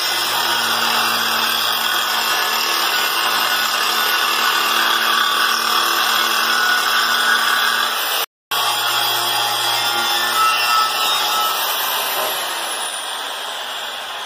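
Angle grinder with a grinding wheel, grinding coating off a steel plate: a steady grinding noise over the motor's hum. It cuts out briefly just past halfway, and near the end the motor winds down with a falling whine.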